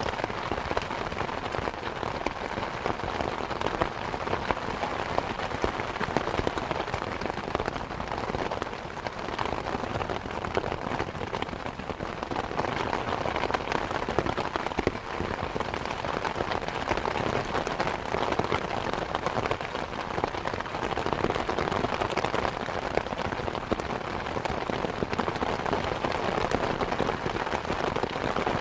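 Steady rain falling and pattering on surfaces, a dense even hiss of countless drops with no let-up.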